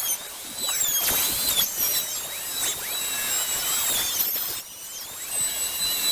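A high-speed power tool, of the kind used to cut pallet wood, running with a high whine whose pitch dips and recovers several times as it works.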